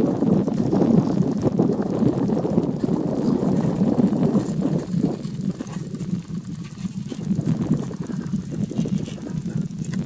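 Low, choppy rumble of a Boeing 737-800's CFM56 jet engines heard from the ground, easing a little past the middle and building again near the end.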